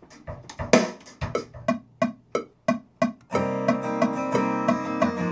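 A drum, likely the floor tom, struck repeatedly for a mic check, about three ringing hits a second. About three seconds in, recorded music with plucked guitar-like strings starts playing steadily and is louder than the hits.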